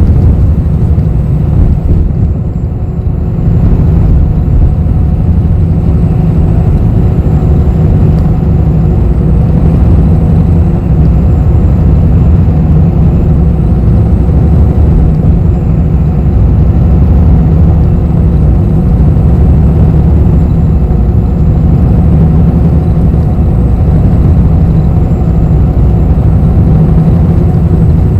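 Inside a city bus's cabin: the steady low rumble of the bus engine and road noise, easing briefly about two seconds in.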